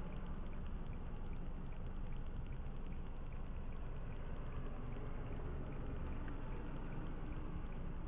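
Steady road noise inside a moving car, picked up by a dash cam: a low rumble with the hiss of tyres on wet, slushy streets, and a faint regular ticking.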